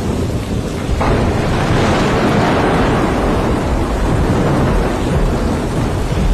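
Heavy rain pouring down, with a steady low rumble underneath; the rain grows suddenly louder and brighter about a second in and keeps up.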